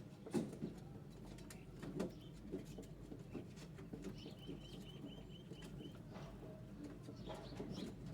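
Java sparrows in a cage: scattered light clicks and taps throughout, with a run of about ten quick, evenly repeated high chirps in the middle.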